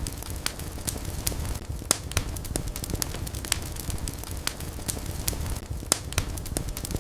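Wood fire burning in a fireplace: a steady low rumble of the flames with frequent sharp, irregular crackles and pops, a few a second.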